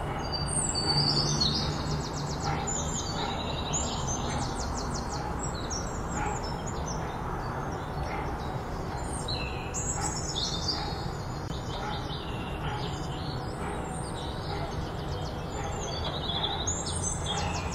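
Small birds chirping and giving fast trills, repeated throughout, over a steady low background rumble.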